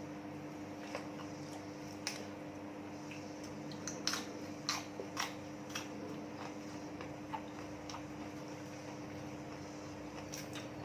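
Eating sounds: scattered light clicks and taps from mouth and utensils, the loudest in a cluster about four to five seconds in, over a steady low hum.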